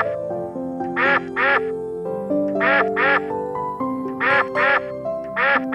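Duck quacking in quick pairs, a pair about every second and a half, over background music with long held notes.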